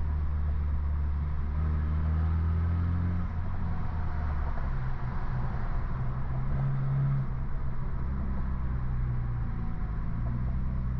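BMW F30 328i's turbocharged four-cylinder through a straight-piped exhaust with an aftermarket downpipe, droning steadily at low revs in slow traffic. The pitch drops about three seconds in and rises again around six seconds.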